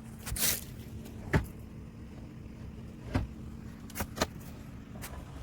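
A steady low hum with a short hiss about half a second in, then several sharp clicks and knocks at uneven intervals, two of them close together near the four-second mark.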